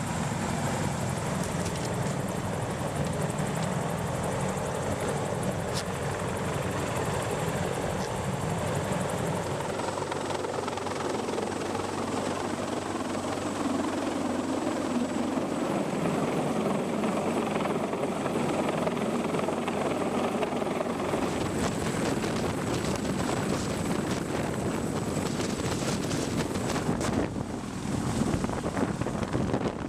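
Aircraft engines running steadily, a continuous rushing noise with a thin high whine, dipping briefly near the end.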